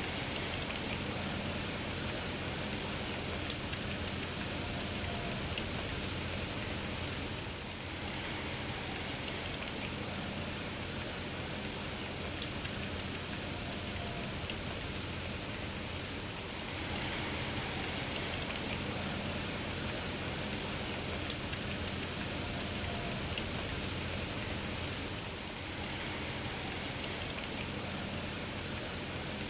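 Steady rain falling, an even hiss of many drops, with three sharp ticks about nine seconds apart standing out above it.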